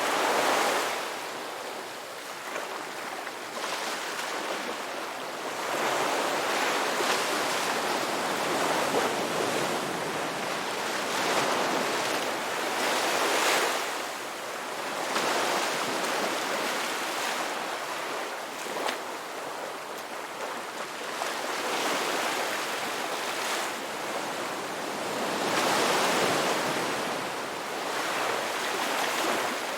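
Ocean waves breaking and washing on a shore, a steady wash of surf swelling and easing again every few seconds.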